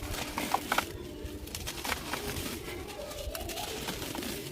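Dry, dusty material crumbled by hand, giving scattered crunchy cracks and clicks, with a pigeon cooing in the background.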